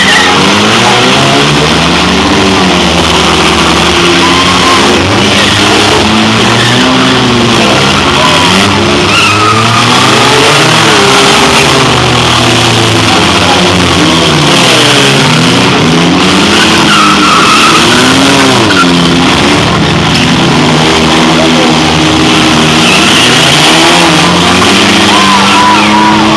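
Several demolition derby cars' engines revving up and down over one another as the cars spin their tires and ram each other, with a few sharp knocks from collisions.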